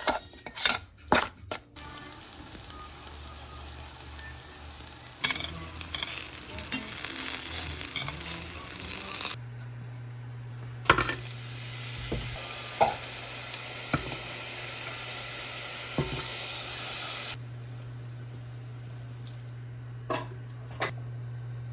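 Food sizzling as it fries in a pan and is stirred, with a few knocks and clinks of a utensil against the pan. A steady low hum sets in about halfway through.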